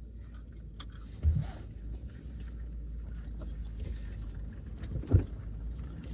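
Ford E250 van driving, heard from inside the cabin: a steady low road and engine rumble, with two thumps about a second in and near the end.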